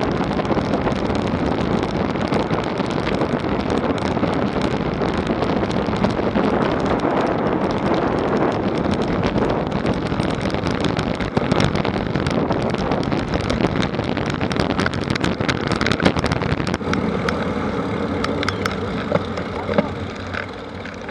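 Wind noise on the microphone and rattling from a bicycle ridden over rough ground, steady throughout with many small clicks and knocks.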